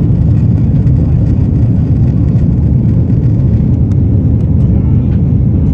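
Aircraft taking off: a loud, steady low rumble.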